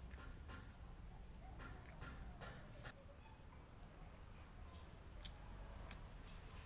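Insects chirring in the background: a steady, faint, high-pitched drone, with a few soft scattered clicks.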